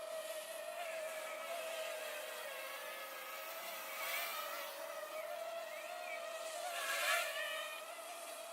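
Parrot Mambo minidrone's small motors and propellers buzzing in flight, the pitch wavering slightly as it manoeuvres, with a brief louder swell about seven seconds in.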